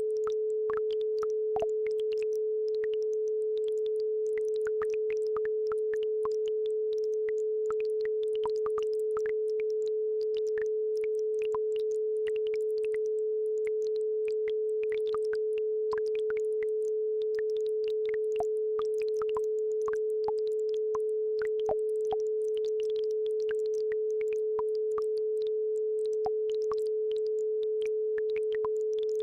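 A steady 432 Hz pure tone held without a break, with the faint scattered trickles and plinks of a babbling brook underneath.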